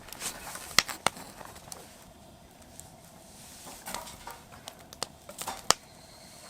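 Campfire crackling: scattered sharp pops at irregular intervals, a few of them loud, over a faint background hiss.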